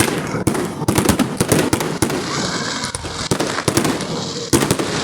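Fireworks going off in a display: many sharp bangs in quick, irregular succession, with a stretch of dense crackling around the middle.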